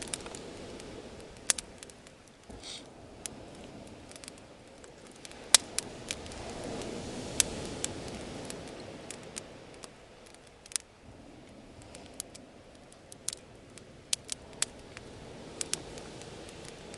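Bonfire crackling: irregular sharp snaps and pops of burning wood over a soft rushing background that swells and fades.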